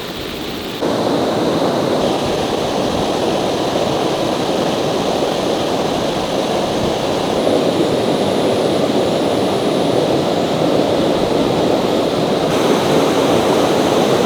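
Steady rush of running water. It gets louder about a second in.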